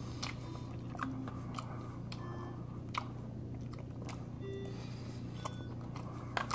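Close-miked chewing and mouth sounds of a person eating a poke bowl, with scattered sharp clicks as a fork works in a plastic bowl, over a steady low hum.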